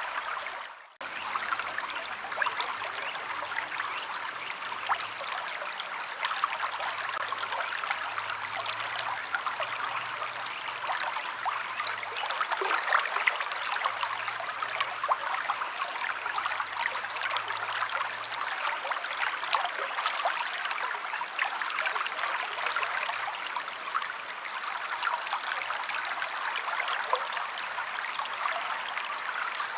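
Stream flowing over rocks, a steady babbling rush of water. It cuts out briefly about a second in, then returns.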